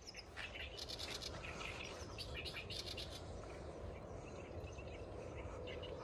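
Small birds chirping in quick, short, high notes, busiest in the first three seconds and thinning out after, over a low rumble of wind on the microphone.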